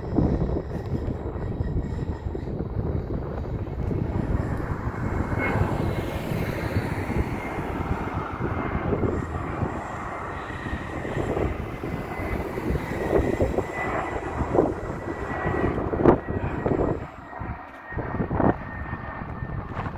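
Strong wind buffeting the microphone: a gusty rumble, with a brief sharp gust about three-quarters of the way through followed by a short lull.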